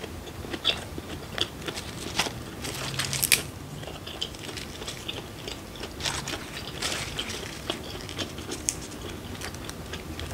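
Close-miked chewing of a mouthful of raw fish, with crunching and wet clicking bites. Later, crisp lettuce leaves crinkle as they are handled and folded into a wrap.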